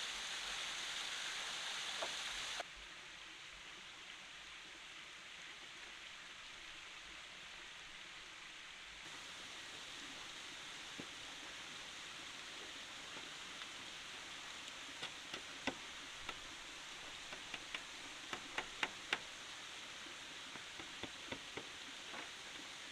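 Steady rushing of a forest stream. The rushing drops in level about two and a half seconds in. Scattered sharp knocks come in the second half, several in quick clusters.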